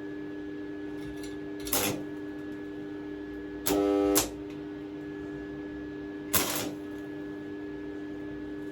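Stick welding in short runs: brief crackling bursts of the arc about two seconds in and near six and a half seconds, and a louder buzzing burst around four seconds, over a steady hum.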